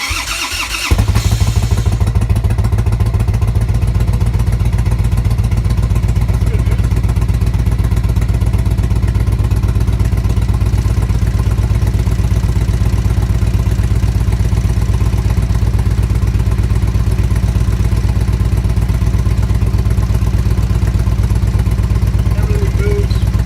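Harley-Davidson Evolution Big Twin air-cooled V-twin, fuel-injected, cold-started after standing about a year: a second or so of starter cranking, then it catches and idles steadily.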